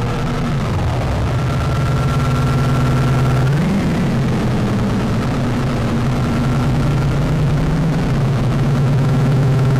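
Soma Lyra-8 analogue drone synthesizer playing a dense, gritty low drone of sustained tones, its pitch sliding down about half a second in and up again about three and a half seconds in.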